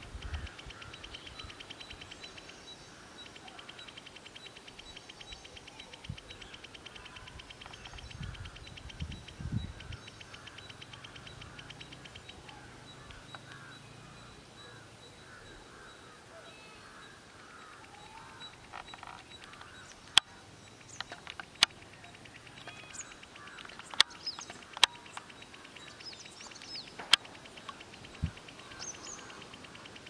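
Small birds chirping and calling outdoors, with a fast, even, high-pitched pulsing through the first half. From about twenty seconds in come several sharp, loud clicks among the chirps.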